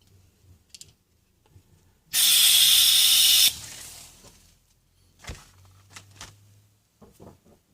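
Butane gas hissing in one loud burst of about a second and a half, cut off sharply and trailing away, followed by a few light clicks.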